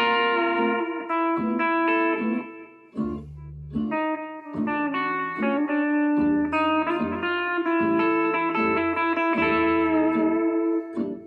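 Guitar playing sustained notes over a backing track with a bass line, briefly dropping away about three seconds in.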